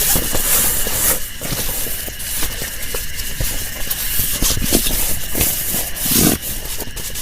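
Heavy rain falling steadily, with many irregular louder drop impacts, over a few faint steady high tones.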